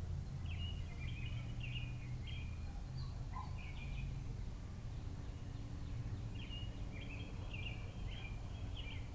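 A bird chirping in short, quick phrases, three bursts of song with short gaps between, over a steady low background hum.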